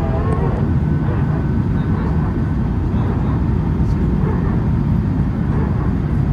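Airbus A319 cabin noise during the landing: a steady, loud low rumble of airflow and engine, with only the right engine running after the left one failed. A bending whine from before fades out within the first half second.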